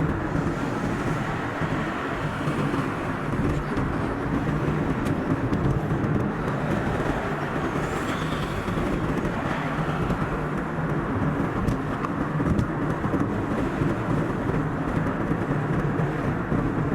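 Car driving along a road: steady tyre and engine noise, sped up to double speed.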